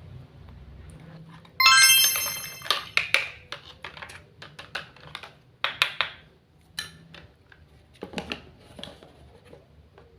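A short, bright electronic chime about a second and a half in, followed by a run of light, sharp clicks and taps from small objects being handled.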